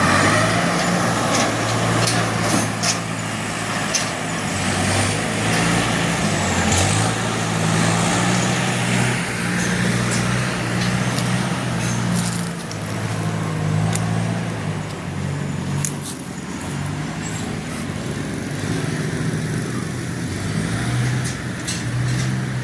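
A heavy vehicle engine running steadily with a low hum that rises and falls a little, with scattered knocks and clicks.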